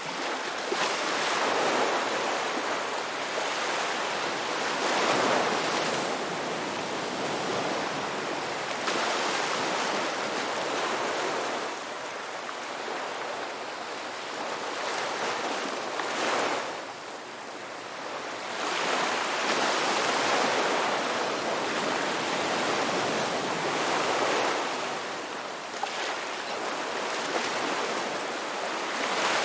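Sea waves breaking and washing up on the shore, swelling and falling away in surges several seconds apart.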